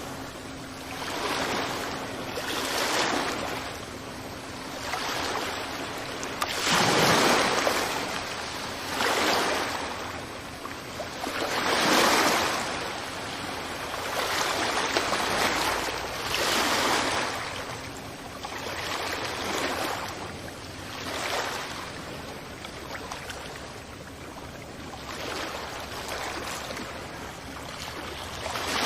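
Ocean waves breaking and washing onto a beach, one surge after another every two to three seconds over a steady hiss of surf.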